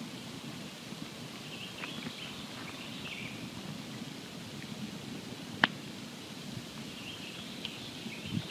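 Wood campfire burning with a steady hiss and scattered small crackles, and one sharp, loud pop a little past halfway. Faint high twittering calls come and go in the background.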